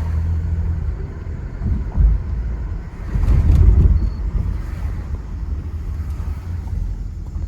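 Toyota Avalon running and driving, engine and road rumble heard from inside the cabin, swelling louder for a moment about three seconds in.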